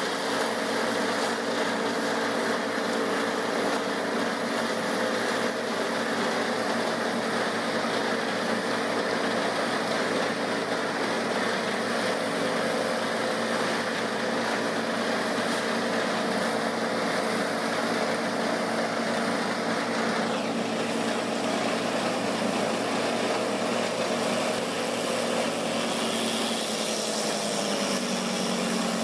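Heavy machinery engine running steadily with a layer of hiss above it; the hiss drops away about two-thirds through, and near the end the engine pitch dips and comes back up as the revs change.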